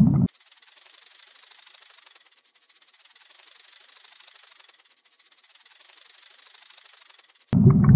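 King cobra hissing: a high, airy hiss that swells and fades three times. A louder, low underwater rumble cuts off about a third of a second in and comes back abruptly near the end.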